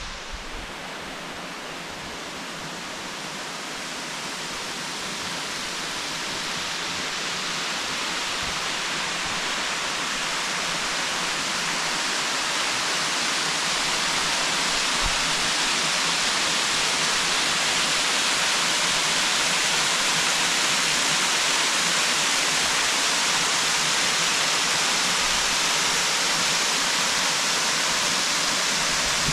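Waterfall rushing in a steady, even roar that grows louder over the first half, then holds level.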